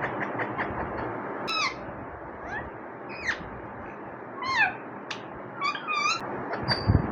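Parrot giving a string of short squeaky calls and whistles, several sliding downward in pitch, over a steady background hiss.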